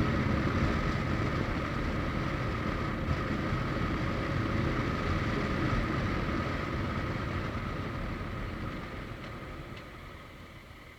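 Suzuki GSX1250FA inline-four motorcycle on the move: steady wind rush and engine and road noise, dying down over the last three seconds.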